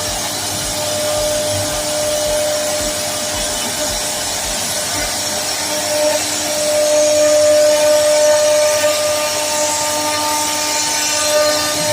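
CNC wood router running, its spindle whining steadily as the bit carves a design into wood. A faint low pulsing, about three a second, stops about five seconds in. The cutting noise grows louder about six seconds in.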